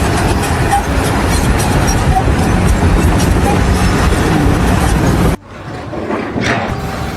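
Loud steady rumbling noise that cuts off abruptly a little over five seconds in, followed by quieter noise with a faint steady hum.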